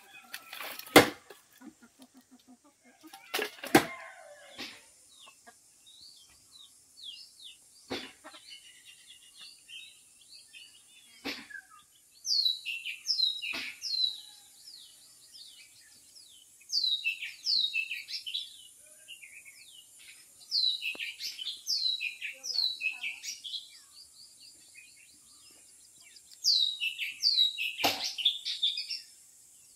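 A few sharp knocks in the first seconds, then a songbird singing in four bouts of short, quickly repeated high whistled notes.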